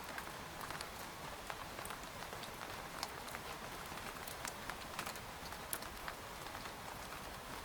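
Steady rain on a tent, an even hiss with many irregular drop taps on the fabric.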